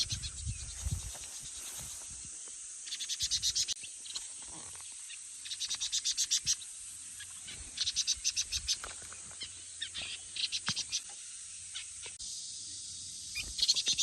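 Repeated rapid ticking trills, each about a second long and coming every two to three seconds, over a steady high-pitched drone.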